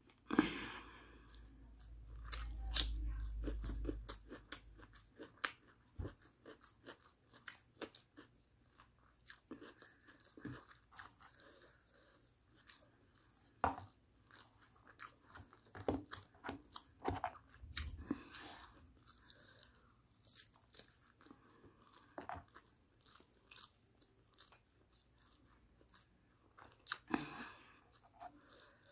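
Close-up chewing and crunching of mouthfuls of barbecue chicken and rice, with many irregular wet smacks and clicks. A low rumble runs from about two to four seconds in.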